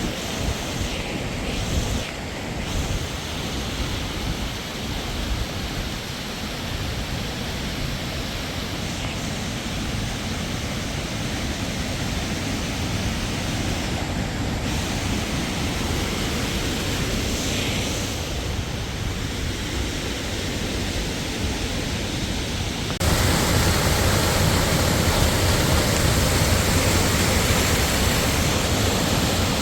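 Waterfall: a steady rush of falling water, becoming suddenly louder and fuller about three-quarters of the way through.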